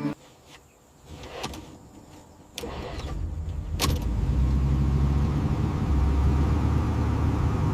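Car engine starting about two and a half seconds in, after a few faint clicks, then running steadily with a low drone; a sharp click comes shortly after it starts.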